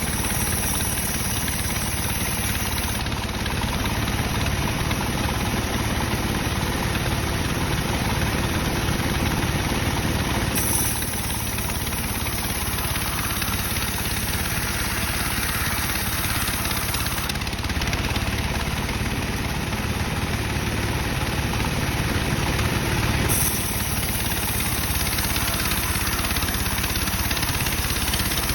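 Sawmill band saw running steadily while it rips dry teak timber, a constant machine drone with no break.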